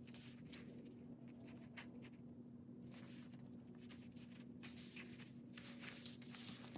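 Faint scratching and rustling of a knife carving and trimming a pineapple, in short spells over a steady low hum.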